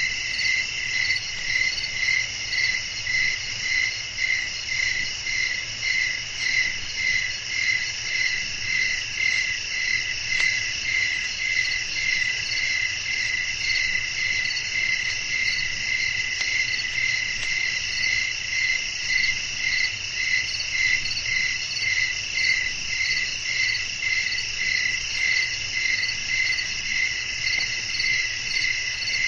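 Crickets chirping: a loud, evenly pulsed chirp about twice a second over a steady, higher insect trill.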